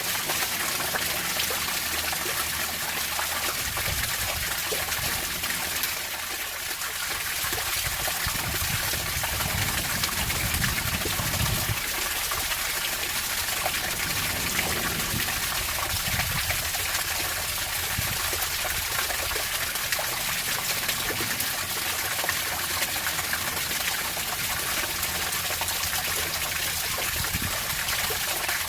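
Running water, a steady splashing flow without pause.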